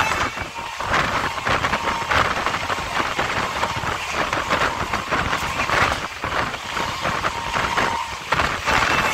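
Indian Railways passenger coach running at speed, heard from its open doorway: wheels and coach clattering and rattling over the track, with a high squeal that comes and goes.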